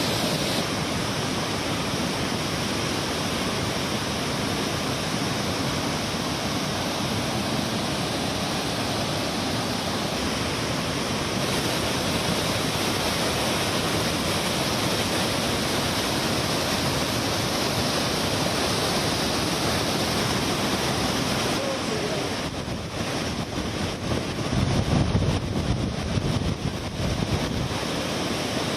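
Floodwater of an overflowing river rushing in a steady, continuous wash of noise. Near the end the sound wavers and a louder low rumble comes in.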